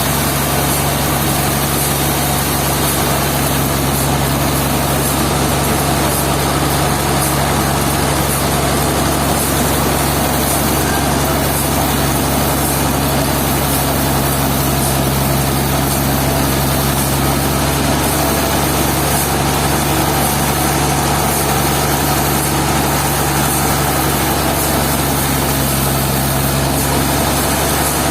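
An engine or heavy machine running steadily at an unchanging pace, with a constant low hum.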